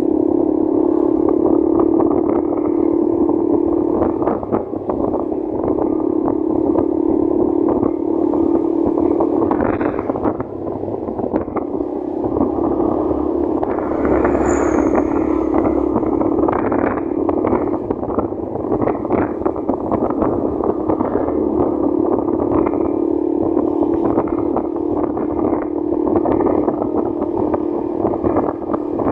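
Motorcycle engine running steadily while riding along a road, easing off briefly twice, with wind gusting on the microphone. A short high-pitched chirp comes about halfway through.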